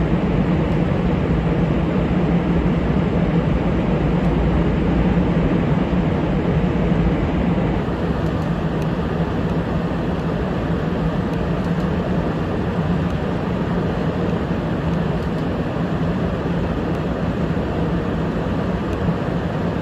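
Jet engine noise from an F-35A Lightning II's single F135 turbofan: a steady low rumble that eases off slightly about eight seconds in.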